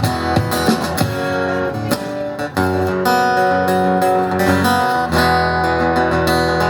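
Acoustic guitar strumming chords in an instrumental break of a rock song. Quick strokes for the first couple of seconds, then fuller chords left ringing.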